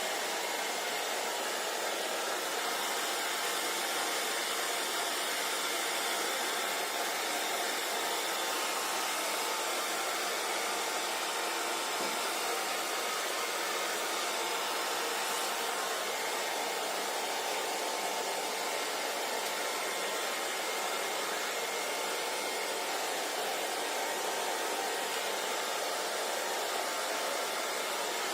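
Hair dryer blowing steadily: an even rush of air with a faint steady whine from the motor and fan, no change in pitch or level.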